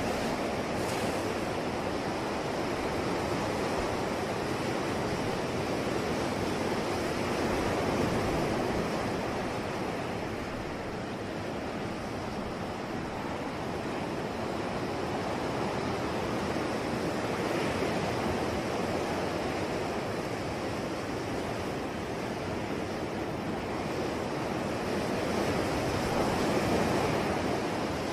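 Ocean surf: waves breaking and washing ashore in a continuous rushing noise, swelling a little with larger waves around a third of the way in and again near the end.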